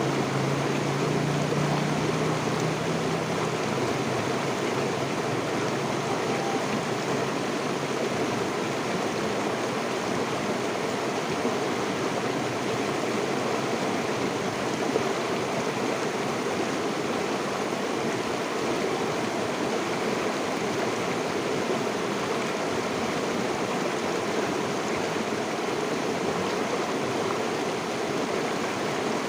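River water flowing and rushing steadily. A low hum under it fades away over the first few seconds.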